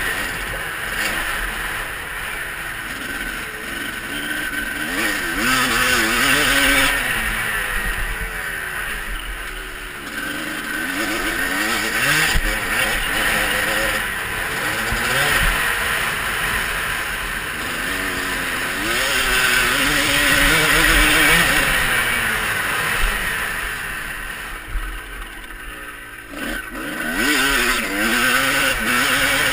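Motocross bike engines revving, their pitch climbing and falling again and again as the throttle is opened and shut off, with a brief lull near the end.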